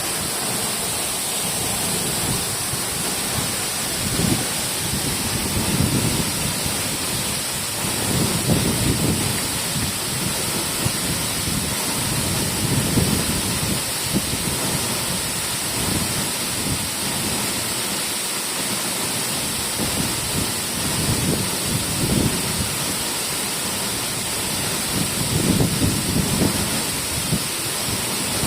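Waterfall rushing in a steady roar of falling water, with low rumbling swells every few seconds.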